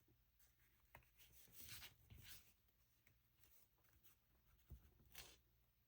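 Near silence with faint rustles of paper being handled and a soft tap.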